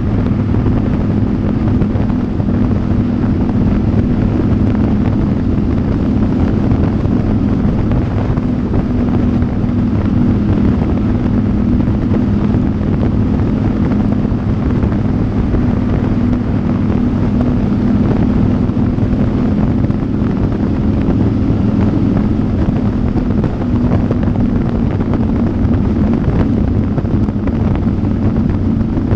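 Motorcycle engine running steadily at cruising speed, its pitch holding level, with wind rushing over the microphone.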